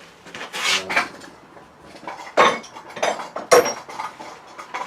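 Hard objects being handled on a workbench, clinking and clattering, with two sharper knocks about two and a half and three and a half seconds in; the second knock rings briefly, like metal.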